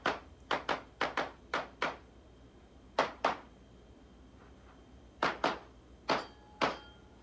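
9mm Glock 19 pistol being fired, about a dozen shots, mostly in quick pairs, with pauses of a second or two between groups.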